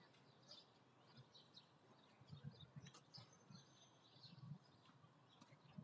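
Faint, scattered bird chirps over very quiet outdoor ambience, with a few soft low bumps.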